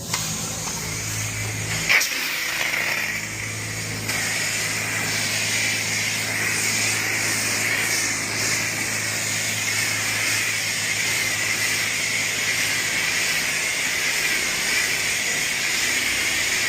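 Self-serve car wash high-pressure wand spraying soap: a steady hiss that starts abruptly, with a low hum underneath and a sharp knock about two seconds in.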